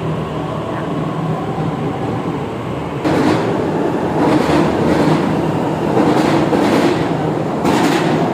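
Delhi Metro train pulling out of an underground platform: a steady rumble that grows louder about three seconds in, with a run of wheel clacks.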